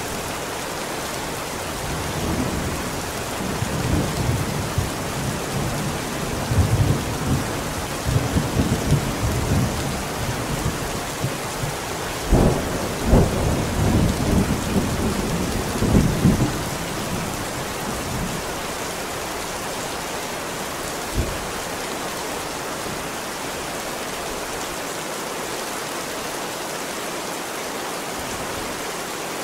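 Steady heavy rain with a long, rolling thunder rumble that builds a couple of seconds in and fades out after about sixteen seconds, with sharper cracks near the middle. A brief single thump of thunder comes later, then only the rain continues.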